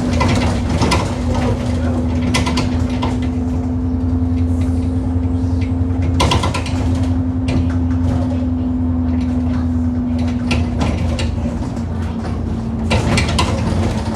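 Bus engine drone heard from inside the saloon while it drives, with a steady hum and irregular loud knocks and rattles from the bus as it rides over potholes. The knocking is the fault the bus is known for.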